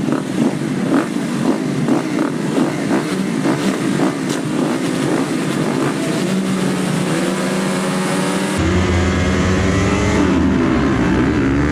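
Motocross bike engine revving up and down under hard riding, with sharp knocks about twice a second in the first half; about two-thirds of the way in a steady deep drone joins it.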